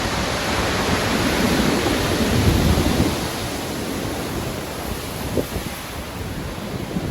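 Rough sea: waves breaking and washing on the shore in a steady noisy rush, with a surge of deep rumble about two and a half seconds in that then eases off, and wind noise.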